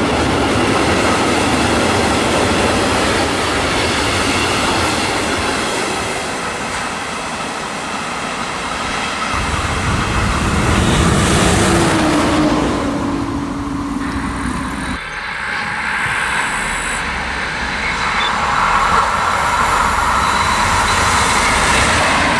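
Trains passing on the rails: first a freight train of tank wagons rolling by with wheels and wagons rattling, then, about halfway through, diesel locomotives running light, with a steady engine drone and a deeper rumble near the end.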